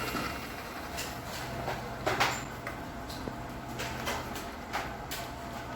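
Scattered light clicks and knocks from handling a toy remote-control helicopter and its remote, over a faint steady low hum. The helicopter does not start; the battery is thought to be flat.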